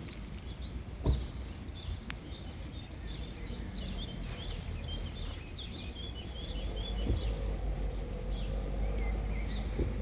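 Small birds chirping and twittering in quick runs of short high notes, over a steady low rumble. There is a single sharp knock about a second in.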